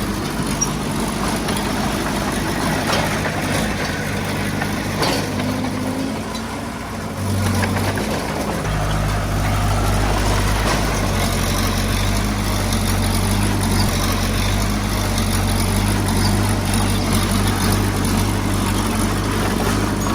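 Diesel engine of heavy earthmoving equipment running steadily. Its low note grows stronger about seven seconds in and again a little later, as it takes on more load.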